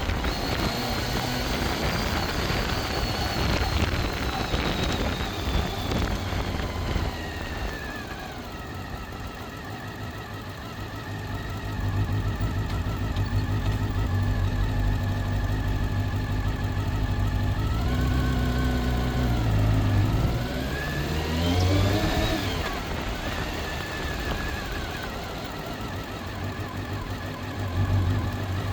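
Honda CBR400RR's inline-four engine under way: the engine note falls over the first several seconds, holds steady for a while, then rises and falls again twice in the later part.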